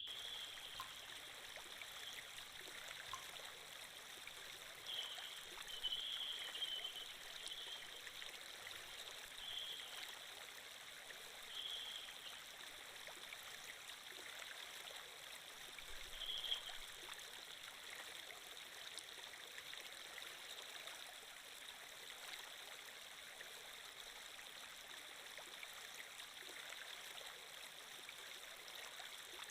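Flowing water ambience, a steady stream-like rush with a few brief louder spots, the biggest about six seconds in and again past halfway.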